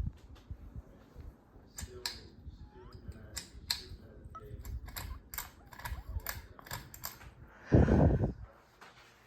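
A run of sharp, irregular clicks and ticks, then a loud, brief low rumble near the end.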